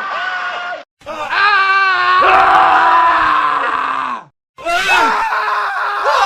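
Men screaming, one scream after another in an edited montage. A short scream is cut off, then comes a long scream of about three seconds that wavers early on and drops in pitch as it ends. A third scream follows. Each cut leaves a split second of dead silence.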